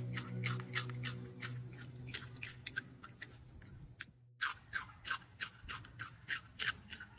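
An animal chewing: regular crunching clicks, about three a second, with a short break about four seconds in.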